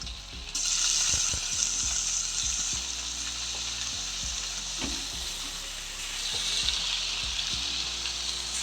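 Marinated chicken pieces sizzling in hot mustard oil as they are dropped into the pan one by one. The sizzle jumps louder about half a second in and keeps going, with light knocks here and there.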